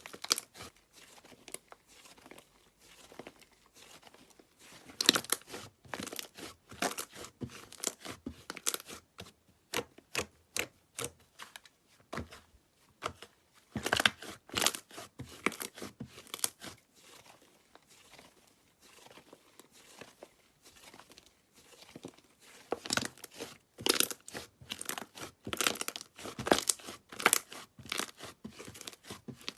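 Slime being pressed and stretched by hand, giving runs of sharp crackling pops in clusters with short pauses between them.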